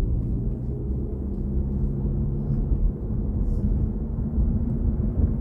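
Low road and tyre rumble inside the cabin of a BMW i4 M50 electric car while it drives, with a steady low hum running under it.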